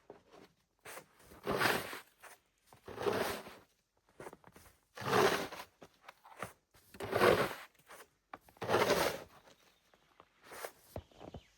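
Slow, heavy footsteps crunching through deep snow, about five long crunches, one every couple of seconds.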